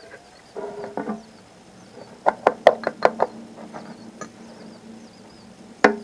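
A quick run of about six sharp knocks, with one more single knock near the end, after a short rustle.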